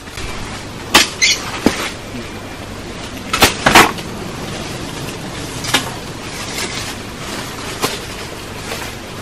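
Scattered sharp knocks and clicks, a second or more apart, over a steady background hiss.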